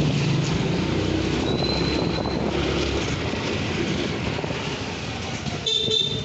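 Steady rumbling ride and traffic noise with a thin high squeal about a second and a half in; a horn sounds briefly near the end.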